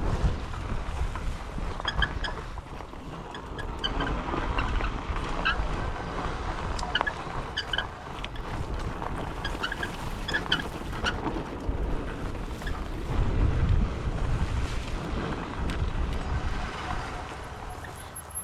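Wind buffeting the microphone during a ride on an electric bike along a rough trail, with tyres rolling over the ground and scattered clicks and rattles. The buffeting swells and is strongest a little past the middle.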